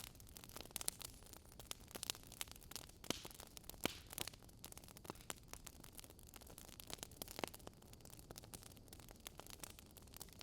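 Campfire crackling: irregular sharp pops and snaps of burning wood over a low steady hiss, with one louder pop a little before the fourth second.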